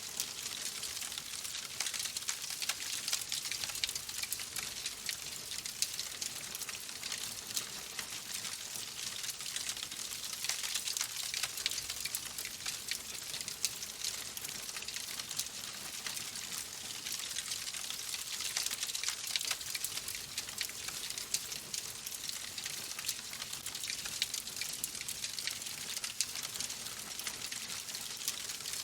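Fireplace fire crackling steadily: a constant hiss dotted with many small pops and snaps.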